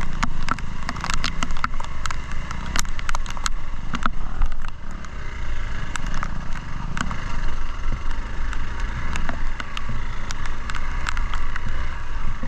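Off-road motorcycle running along a muddy trail, a steady low engine and road rumble with many sharp clicks and knocks scattered through it.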